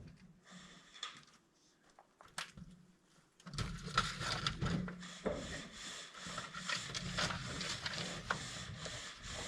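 A few faint knocks, then from about three and a half seconds in a steady, rhythmic rubbing and scraping against wood that runs on fast and even.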